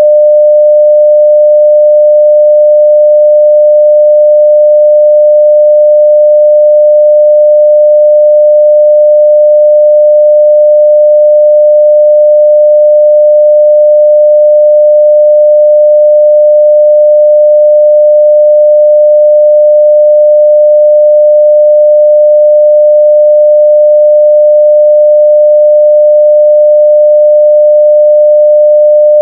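Continuous 600 Hz sine-wave test tone at full scale (0 dB), one steady unchanging pitch.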